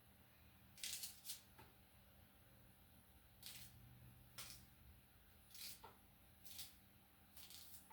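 Faint, crisp ticks and scrapes of onions being prepared by hand, about eight of them at irregular intervals.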